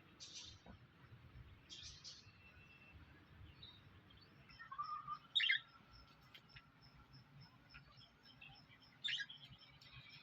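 A small bird chirping in several short, high calls, with the loudest burst about five seconds in and another near the end.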